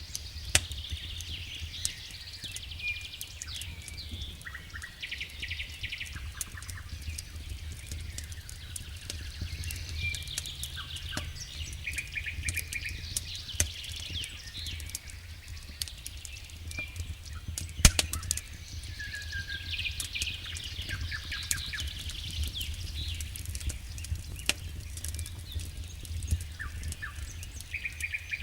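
Wood fire in a fireplace crackling, with scattered sharp pops (one much louder about two thirds of the way through) over a steady low rumble. Small birds chirp and trill repeatedly throughout.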